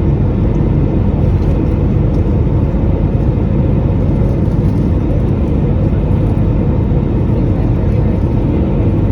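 Steady low rumble and whir of an Airbus A320-200's jet engines and rushing air, heard from inside the passenger cabin, with a faint steady hum running through it.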